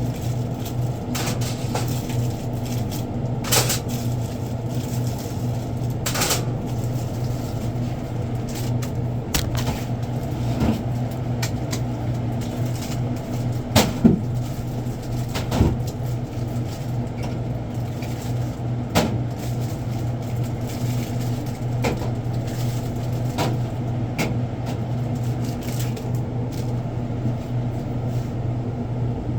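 Goods and boxes being handled while store stock is sorted: scattered knocks, clacks and rustles over a steady low hum. The loudest is a pair of knocks about halfway through.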